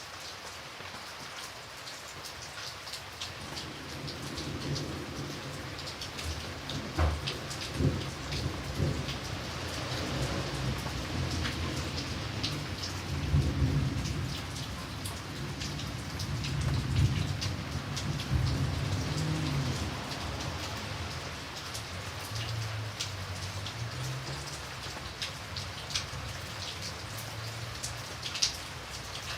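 Steady rain with close drops ticking on a surface, while a rolling thunder rumble builds a few seconds in, peaks with a crack about a quarter of the way through and loud swells in the middle, then fades away about three quarters through.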